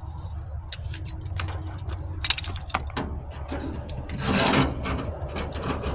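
Scattered clicks and scrapes of metal being handled as the guard on a 4-1/2 in. angle grinder is adjusted by hand, with one longer scrape about four seconds in, over a low steady hum.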